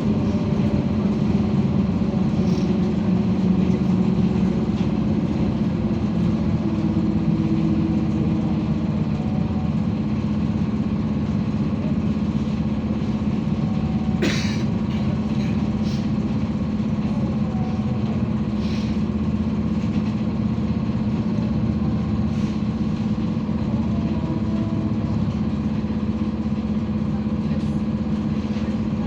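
BKM-32102 trolleybus running between stops, heard from inside the cabin: a steady electric hum from the drive, with a fainter whine that drifts up and down in pitch. A single sharp knock sounds about halfway through.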